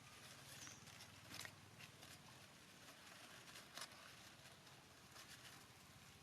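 Near silence: a faint steady hiss with a few soft, scattered clicks, the clearest about four seconds in.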